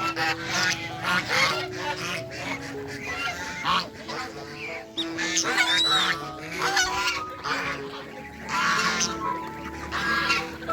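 Domestic geese honking repeatedly, many short calls overlapping and irregular, over background music with long held notes.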